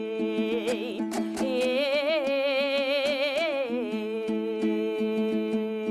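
Kazakh terme performance: a singer holds a long wavering note over a rapidly strummed dombra. About two-thirds of the way in the voice stops, and the dombra strumming carries on alone with its steady drone pitches.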